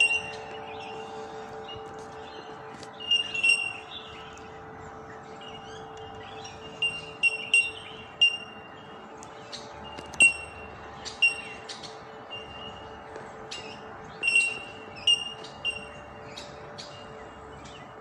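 Bell miners (bellbirds) calling overhead: short, clear, metallic pings like a struck bell, repeated irregularly from several birds, well over a dozen in all.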